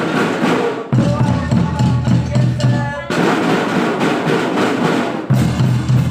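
Kindergarten drum band playing a march: snare and bass drums beating a steady rhythm under a melody from pitched instruments.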